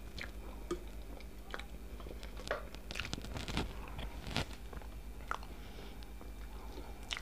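Close-miked chewing of a mouthful of mashed potato and fried chicken in a creamy sauce, with scattered short wet clicks and smacks.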